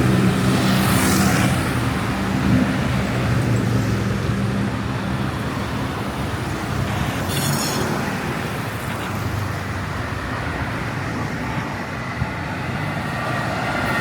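Street traffic: a vehicle engine's low hum close by fades away over the first couple of seconds, over a steady wash of road noise. A brief high-pitched squeal comes about seven and a half seconds in, and an engine hum builds again near the end.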